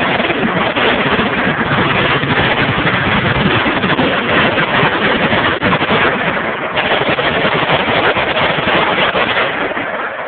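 Sustained heavy automatic gunfire, with rounds running together into one dense, continuous noise that starts suddenly and tails off near the end.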